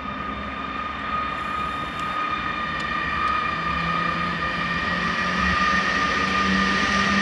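Electric train approaching, its steady whine of several high tones over running noise growing steadily louder.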